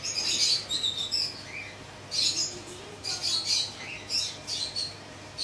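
Small birds chirping in short, high-pitched bursts repeated every half second or so.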